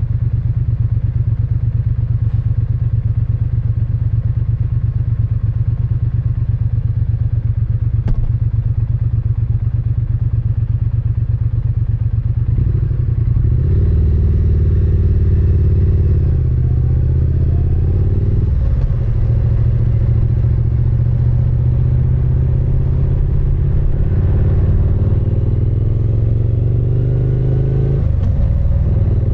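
Triumph Speed Twin 900's parallel-twin engine idling with a steady exhaust beat, then, about twelve seconds in, pulling away and accelerating through the gears, its pitch rising in each gear and dropping back at each shift.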